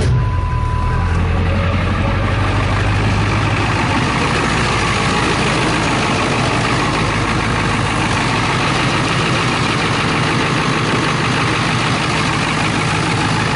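2000 Ford F350's 7.3 L Power Stroke turbo-diesel V8 catching on a cold start and settling into a steady idle, with a short beep in the first second. The engine has nearly half a million miles on it and starts well in the cold.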